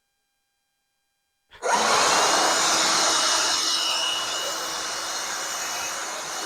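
Silence, then about a second and a half in a loud, steady, rushing machine noise with a faint hum starts abruptly and keeps running.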